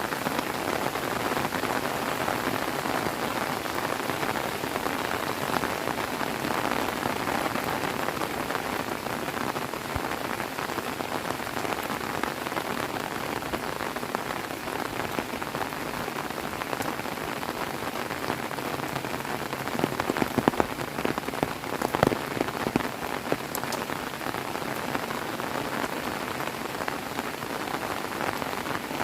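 Heavy rain falling steadily, with a handful of sharper, louder drop hits about twenty seconds in.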